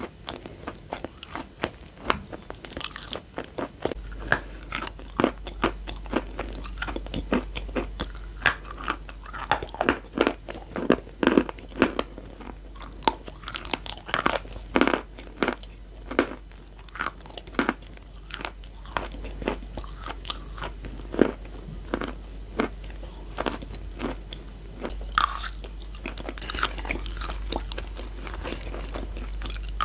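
Close-miked chewing of crumbly chalk and clay-chalk pieces: a run of crisp crunches, several a second. Near the end a fork digs through the chalk crumbs on the plate.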